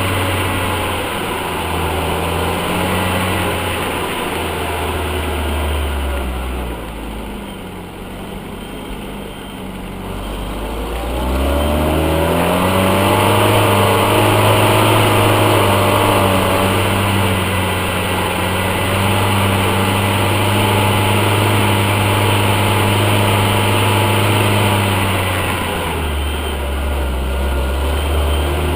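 UAZ off-road vehicle's engine running under load, its revs falling away about a third of the way in, climbing again and holding steady, then easing off near the end.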